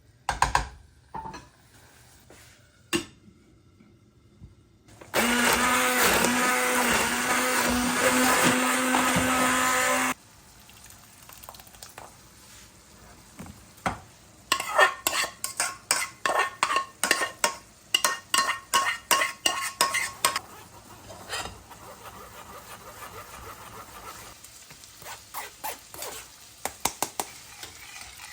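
A kitchen blender runs for about five seconds at a steady pitch, starting and stopping abruptly. Later comes a run of quick, regular knocks of a utensil in a pot, about two or three a second for some six seconds.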